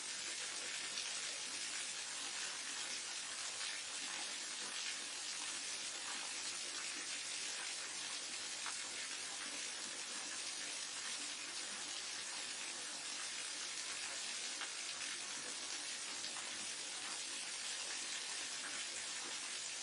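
Waterfall running steadily into a stream: an even, unbroken rush of falling water, mostly high and hissy, with no change in level.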